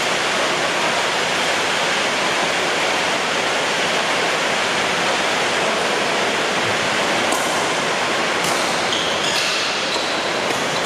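Heavy rain pouring down in a steady, loud hiss. A few short high squeaks and clicks cut through it in the last few seconds.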